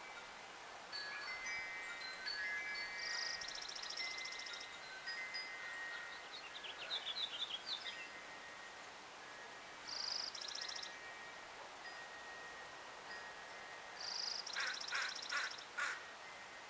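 Wild birds calling and singing: several buzzy trills, a quick run of chirps, and a few sharp notes near the end. Underneath are the steady, overlapping ringing tones of a wind chime.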